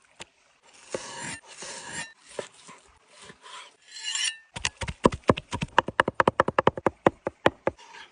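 Several rasping scrapes, then a fast, even run of sharp knocks, about eight a second, from a knife chopping food on a cutting board.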